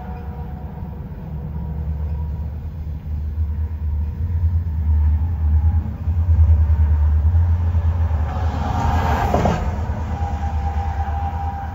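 Covered hopper cars of a freight train rolling past, a deep, steady rumble that swells in the middle. There is a brief sharper hiss about nine seconds in.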